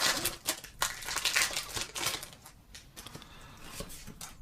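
Pokémon trading cards being handled and flicked through, a quick run of rustles and clicks for about two and a half seconds, then quieter.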